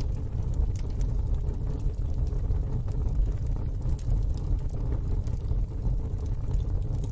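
Fire burning in a fire pit: a steady low rumble with scattered faint crackles and pops.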